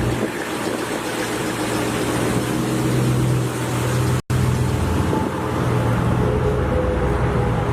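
Vehicle engine running steadily through an aftermarket exhaust, with a low hum. The sound drops out for a split second about four seconds in and then carries on.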